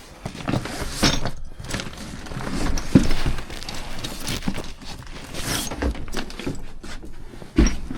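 Irregular knocks, clicks and rustling of tools and parts being handled and sorted, with a few sharper knocks.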